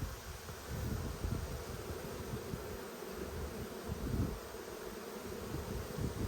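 Many honeybees buzzing in a steady hum around an open hive.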